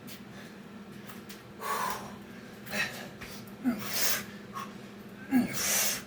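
A man breathing hard from exertion: four loud, sharp breaths about a second apart, two of them starting with a short voiced grunt.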